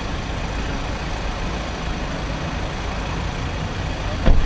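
Steady low vehicle rumble, like an engine idling or traffic close by, with one sharp knock near the end.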